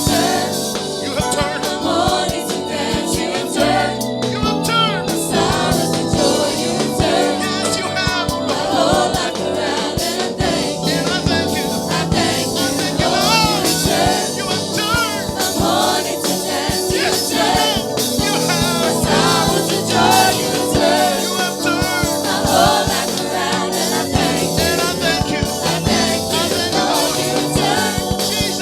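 Upbeat gospel worship music: a choir singing over a band with a steady drum beat.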